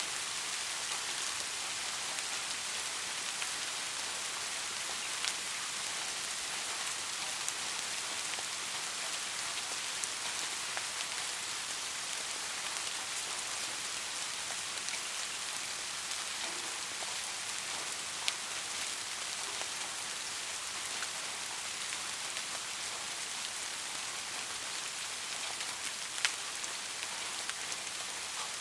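Steady rain falling, an even hiss with scattered sharp drop ticks, a few of them louder.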